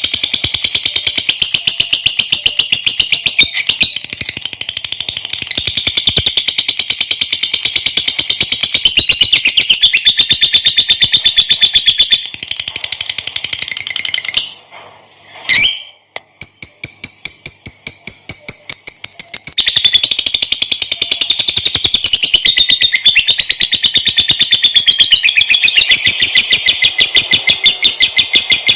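Lovebird giving its long 'ngekek' song: a high-pitched, rapid chattering trill held for many seconds, which breaks off briefly about halfway through and then resumes.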